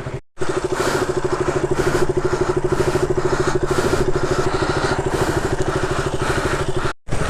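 KTM single-cylinder motorcycle engine idling steadily with an even, rapid pulse. It starts abruptly about a third of a second in and cuts off just before the end.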